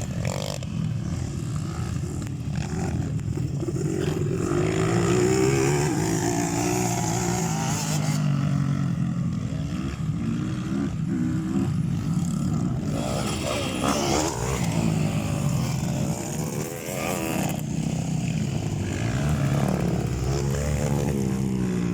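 Several motocross bikes running on a dirt track, their engines revving, with the pitch repeatedly rising and falling as the bikes accelerate and back off.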